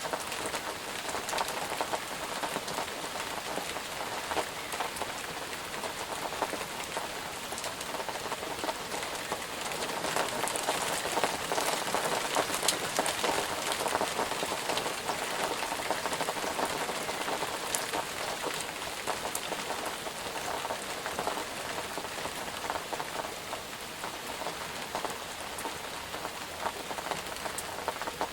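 Steady rain falling on a surface, a dense patter of many drops, swelling slightly in the middle.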